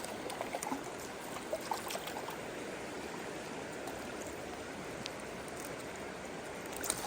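Stream water running steadily over a riffle, a continuous even rush.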